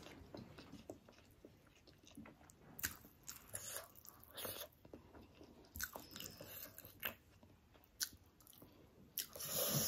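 Close-up eating sounds: a person chewing and smacking mouthfuls of rice and egg curry eaten by hand, with scattered short wet clicks. Near the end there is a louder noisy rush lasting about half a second.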